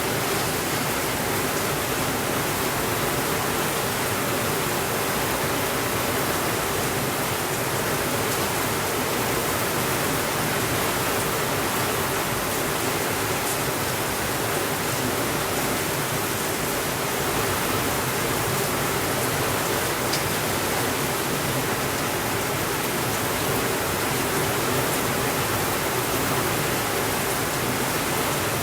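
Steady rainfall, an even, unbroken hiss with no change in level.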